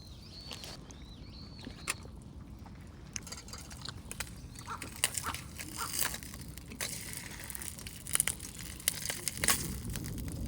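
Crackling with many sharp clicks and pops over a light hiss, thickening from about three seconds in: a wood campfire with food cooking on it. A few short chirps sound in the first second or so.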